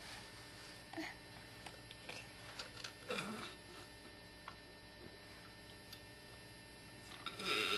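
Quiet room with a steady low hum, broken by a few soft taps and small baby sounds, one short sliding vocal sound about three seconds in and a louder breathy noise near the end.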